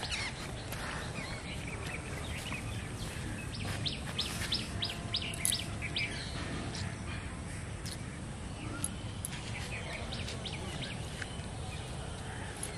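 Small birds chirping: a quick run of short high chirps about halfway through and a few more later, over a steady low background rumble.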